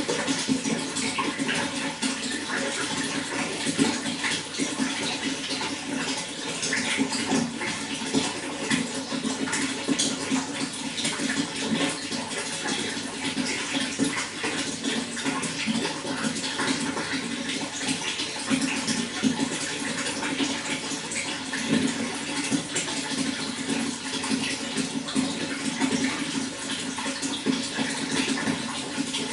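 Running water flowing and splashing steadily, with no pauses.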